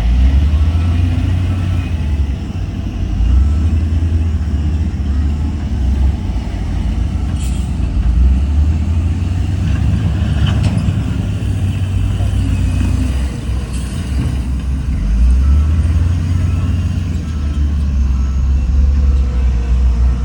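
Heavy diesel earthmoving machinery running: a deep engine drone that rises and falls, with a couple of brief hisses about seven and ten seconds in.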